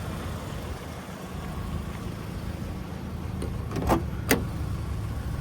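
Two sharp clicks close together about four seconds in, typical of a pickup's door latch and handle being worked as the door is opened. A steady low engine hum runs underneath.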